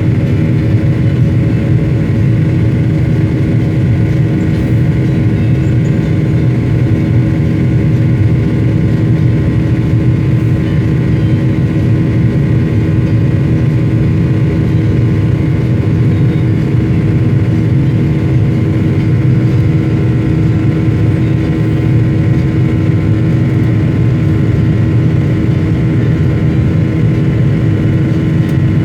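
Airliner cabin noise: the engines running steadily, a constant hum with a steady tone over a low rush of air and engine noise.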